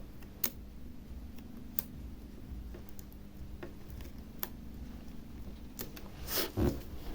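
Scattered sharp clicks and taps of small tablet parts and tools being handled while the motherboard is refitted, about one every second or so, with a short louder scuffing noise near the end over a steady low hum.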